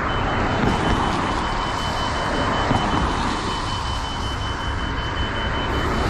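A steady high-pitched electronic buzz lasting about six seconds, over continuous road and traffic noise; the rider says it is not his e-bike and thinks it may have come from a bus.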